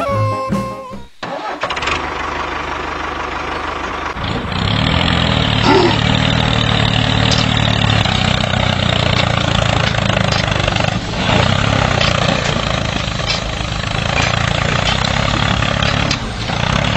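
Tractor engine starting about a second in, then running steadily with an even low note from about four seconds in.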